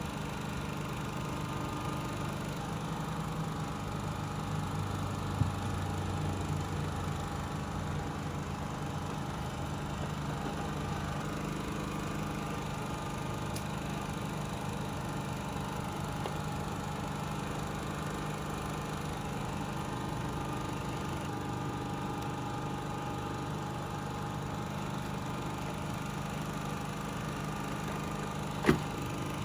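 A small engine running steadily, a constant even hum. A brief sharp sound cuts in once near the end.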